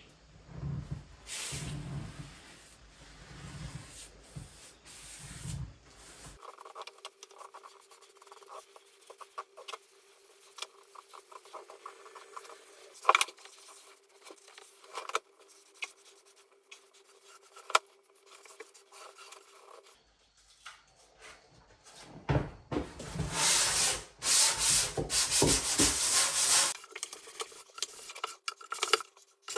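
Rubbing and scraping sounds of hand work, in several short segments that change abruptly, loudest near the end.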